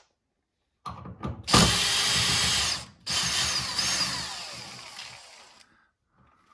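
Power drill running twice: a short burst at steady full speed, then a second run whose pitch falls as the motor slows and winds down, with a few clicks just before the first burst.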